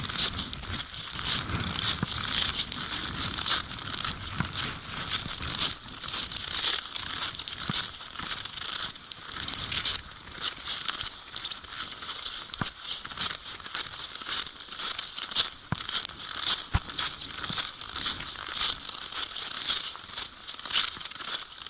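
Blizzard: wind-driven snow hissing and crackling, rising and falling unevenly.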